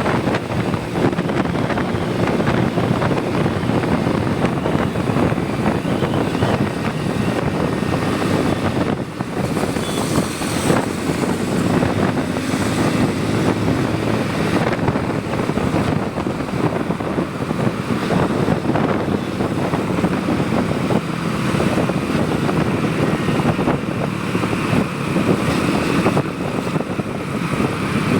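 Motorcycle on the move: the engine runs steadily under road and wind noise.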